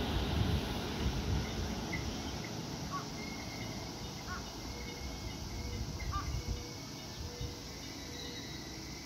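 JR West 221 series electric train pulling away from the platform, its rumble fading over the first few seconds as it recedes. It leaves a quieter station ambience with a few faint short chirps.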